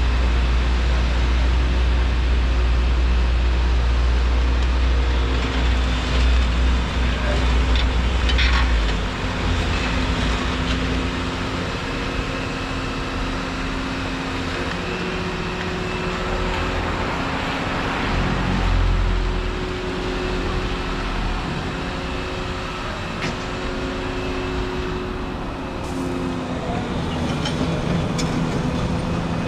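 Volvo 235EL excavator's diesel engine and hydraulics working, with a heavy low rumble for the first nine seconds, then steady hydraulic tones that step up and down as the load changes. A few sharp knocks come through, one about eight seconds in and two near the end.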